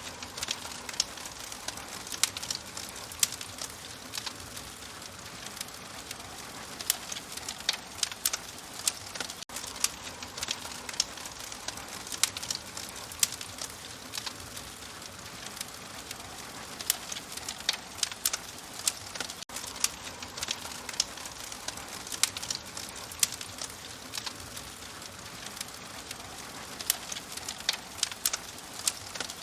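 Open wood fire crackling: a steady soft hiss with many sharp, irregular pops and snaps, several a second.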